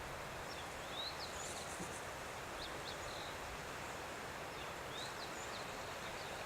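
Steady outdoor background hiss with a scattering of short, high chirps throughout.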